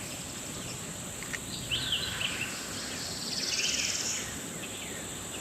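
Outdoor ambience: a steady high insect drone, with a bird's short falling chirps about two seconds in and a buzzy trill a little past three seconds.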